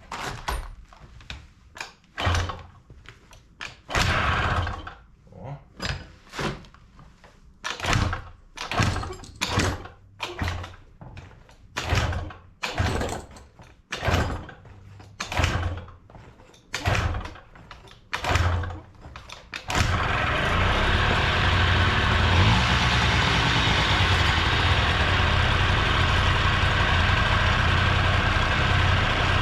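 Honda Dio scooter's rebuilt 65cc two-stroke engine being cranked over in about twenty short strokes without firing, then catching about twenty seconds in and running steadily: its first start after the rebuild.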